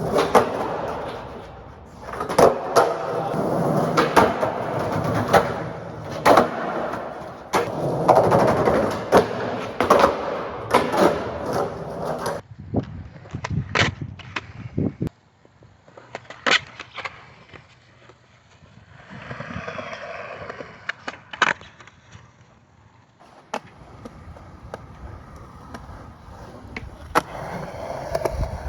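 Skateboard wheels rolling on concrete, broken by repeated sharp cracks of the board being popped and landing. About halfway through it turns quieter and sparser, with only occasional cracks and short runs of rolling.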